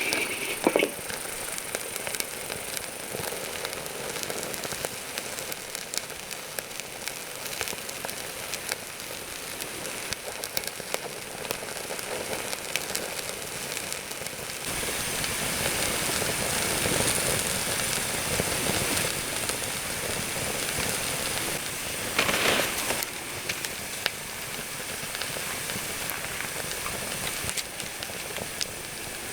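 Campfire crackling with many small pops, with a hiss that grows louder about halfway through.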